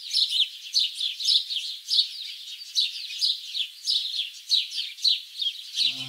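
Birds chirping: a quick, steady run of short, high, falling chirps, about three a second. Soft music comes in under them near the end.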